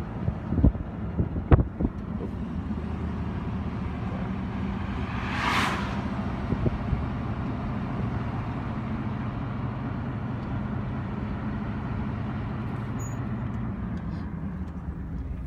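A road vehicle driving, its engine and road noise making a steady low hum, with a few sharp knocks in the first two seconds and a brief rushing hiss about five and a half seconds in.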